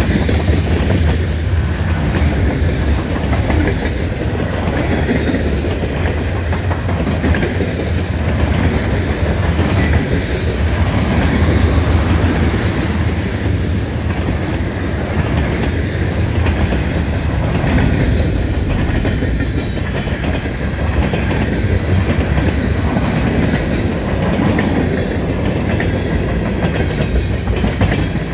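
CN freight train's cars rolling past, wheels clicking over rail joints with a steady heavy rumble.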